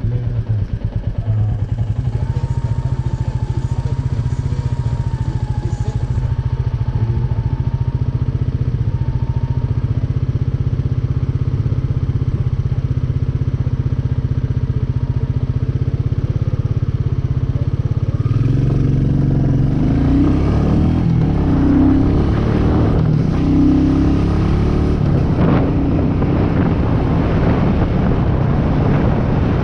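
Royal Enfield Meteor 350's single-cylinder engine running steadily while riding; about two-thirds in it grows louder, with more wind rush over the helmet-mounted camera.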